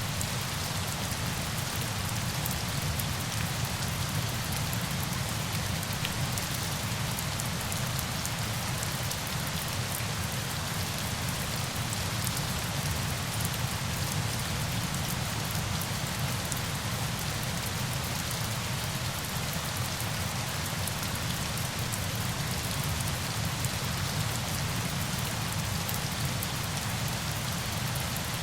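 Steady, unchanging hiss of falling water with a low rumble underneath.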